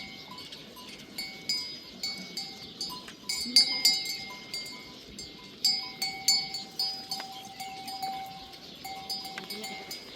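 Metal livestock bells ringing and clanking irregularly as a flock moves, several bells overlapping. One faint bleat is heard about three and a half seconds in.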